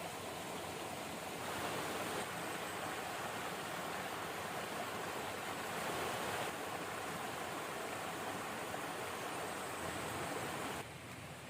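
Steady rushing of a river flowing, getting louder about a second and a half in and dropping off abruptly near the end.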